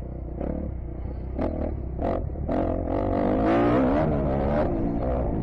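Kawasaki KX250F motocross bike's four-stroke single-cylinder engine revving up and down on the track, its pitch climbing and wavering through the middle, with several short sharp knocks in the first couple of seconds.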